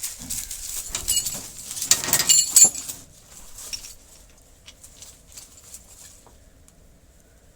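Metal chain rattling and clinking as it is handled, loudest about two seconds in, then a few faint scattered clinks.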